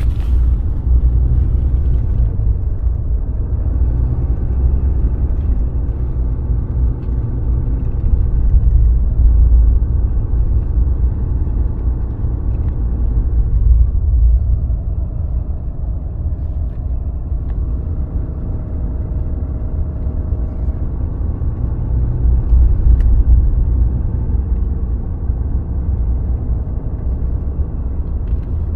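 Ram 2500's Cummins inline-six turbo-diesel running steadily as the truck drives through deep snow, a low rumble of engine and tyre noise that swells and eases slightly.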